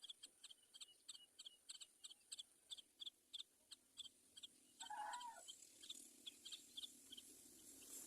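Faint bird chirps: short high notes repeating about three times a second, with one louder, lower call that rises and falls about five seconds in.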